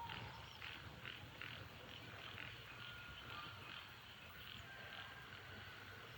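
Faint outdoor ambience of small animal calls: short chirps repeating irregularly about twice a second, with a brief thin whistle-like tone near the middle.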